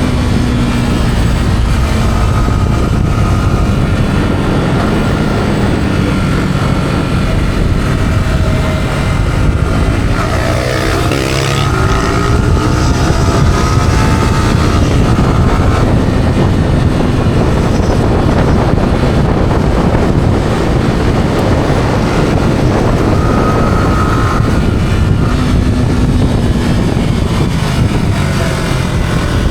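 Yamaha R15 motorcycle's single-cylinder engine running through its stock exhaust while the bike is ridden, under heavy wind rush. The engine note rises in pitch about ten seconds in and again near the end.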